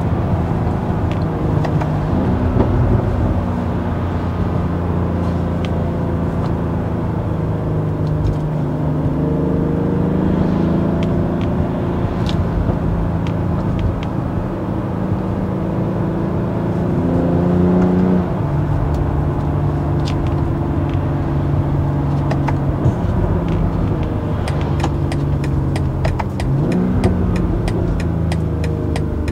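2021 BMW X3 M40i's twin-scroll turbocharged 3.0-litre straight-six running on its stock exhaust, heard from inside the cabin over tyre and road noise while driving. The engine note climbs and then drops back at gear changes, most clearly about eighteen seconds in. Over the last few seconds the turn-signal indicator ticks steadily.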